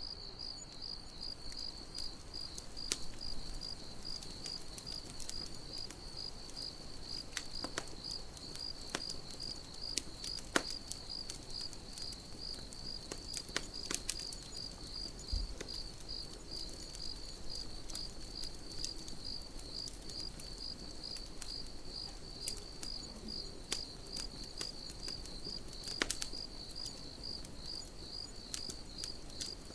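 Crickets chirping in a steady, even rhythm, with the scattered sharp crackles and pops of a wood campfire; the loudest pops come about a third of the way in and again near the end.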